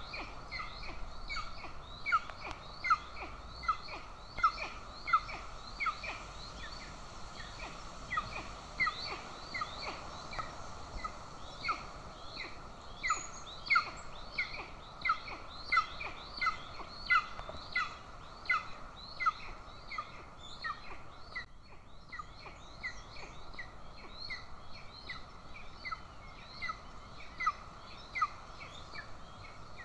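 Golden eagle chick calling at the nest, a long series of short, high, falling calls about one to two a second, with a brief pause about two-thirds of the way through. It is begging for food.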